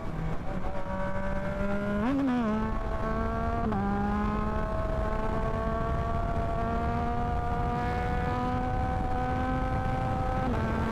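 Yamaha MT-09 motorcycle's inline-three engine running under way, with low wind rumble underneath. Its pitch jumps briefly about two seconds in and again near four seconds, climbs slowly and steadily as the bike gathers speed, then drops with a gear change near the end.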